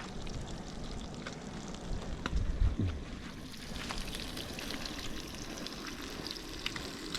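Bacon frying in a pan: a steady sizzling hiss with scattered small pops, and a brief low rumble near the middle.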